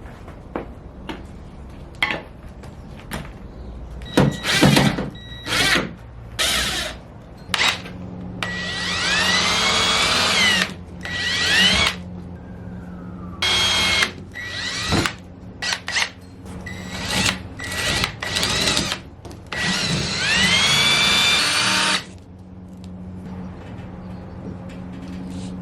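Power drill driving screws in a run of short bursts, with two longer runs a few seconds apart where the motor's whine rises as it speeds up.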